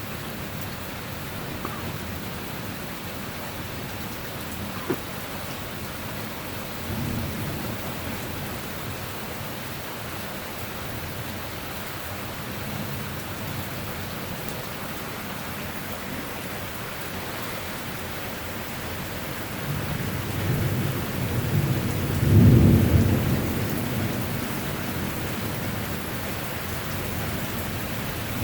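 Steady rain with rolling thunder during a thunderstorm: a short low rumble about seven seconds in, then a louder, longer rumble that builds about twenty seconds in and peaks a couple of seconds later.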